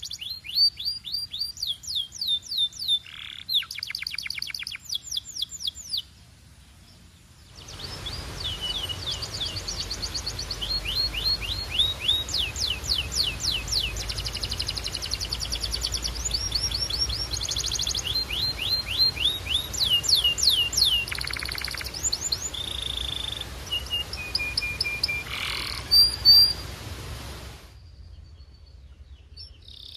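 Canary singing in rapid trills of quick repeated high notes, changing from one trill to the next, with a short pause about six seconds in. From about eight seconds in a steady hiss sits under the song, and the singing stops near the end.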